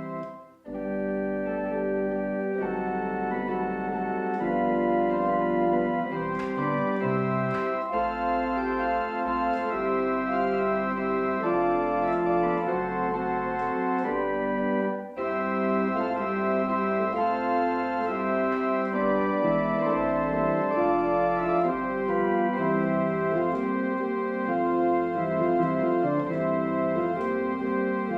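Organ music: sustained chords moving at a slow, even pace, with a short break just after the start and a brief dip about halfway through.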